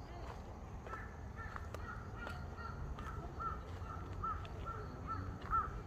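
A bird calling in the forest: a run of about ten short, clear, arched notes, roughly two a second, growing louder toward the end, over a low steady rumble.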